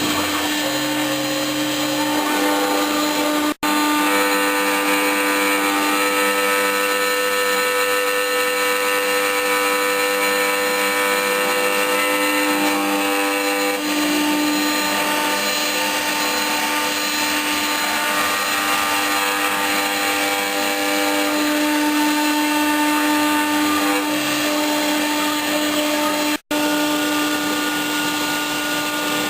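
Homemade CNC router running: a steady motor whine with a strong low tone and several higher tones that shift every few seconds. It cuts out for a split second twice, about three and a half seconds in and near the end.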